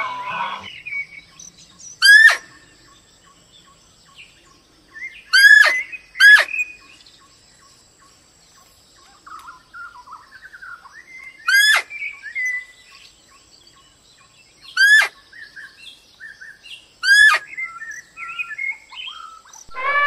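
Birds calling: six loud, short, sharp call notes spaced a few seconds apart, with softer scattered chirps between them.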